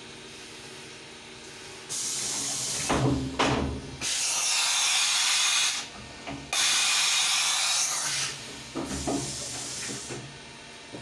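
Compressed air blowing with a loud hiss in two bursts, about four seconds and then about two seconds long, over the steady hum of a CNC milling machine, with a few knocks near the start and after the hissing.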